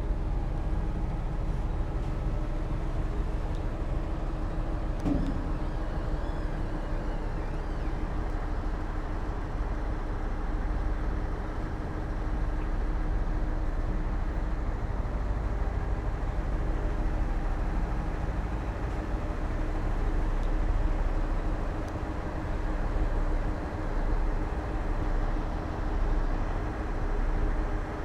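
Diesel engines of heavy earthmoving machinery, a bulldozer and dump trucks, running steadily with a low drone. The engine sound swells and dips a few times near the end.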